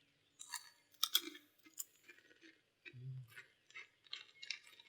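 Crunching and chewing of a crisp, airy peanut crunch snack: a string of short, irregular crunches.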